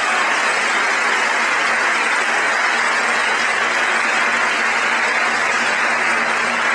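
Audience applauding and cheering: a steady wash of clapping that holds through and begins to fade near the end.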